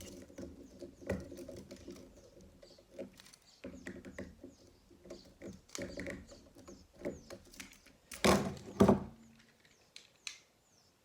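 Handling noise from Lego plastic parts and a remote control: scattered small clicks and rattles, with two louder rustling knocks about eight seconds in.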